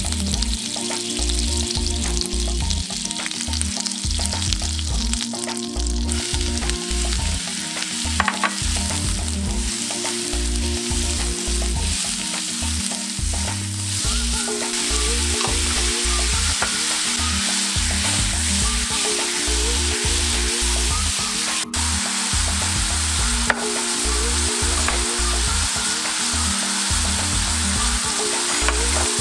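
Butter melting and sizzling in hot perilla oil in a nonstick pan, then zucchini strips stir-frying over high heat, sizzling steadily as a silicone spatula tosses them. Background music plays underneath.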